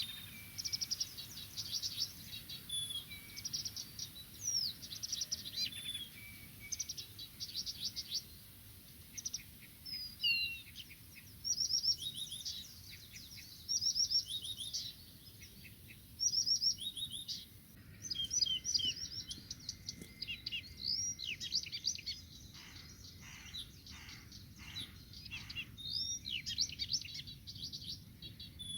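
A songbird singing a varied song of short, rapid phrases of high notes, separated by brief pauses, with a run of lower repeated notes about three quarters of the way through.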